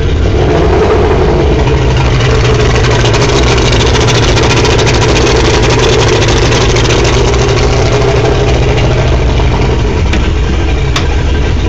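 Mercury 175 carbureted V6 two-stroke outboard running steadily in gear.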